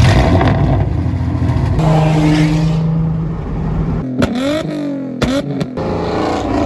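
Car engine revving hard, held at steady high revs, then revved up and down twice with sharp exhaust pops.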